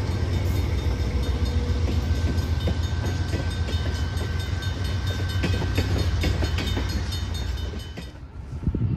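Two Indiana & Ohio Railway diesel locomotives pass close by with a loud, steady low engine rumble. Loaded tank cars follow, their wheels clicking over the rail joints. The sound drops away sharply about 8 seconds in.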